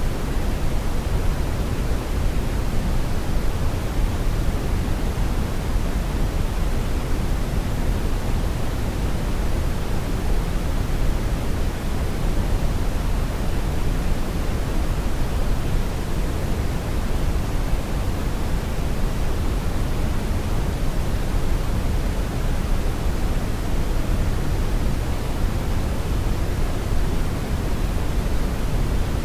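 Brown noise: a steady, even rumbling hiss, strongest in the low end and falling off toward the highs, unchanging throughout.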